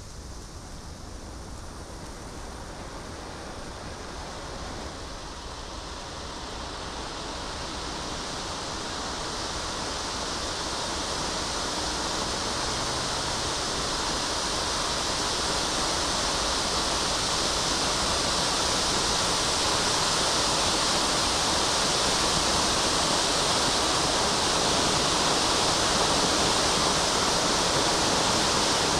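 Firework fountain burning with a steady hiss of spraying sparks, growing gradually louder and then holding, with no bangs or crackles.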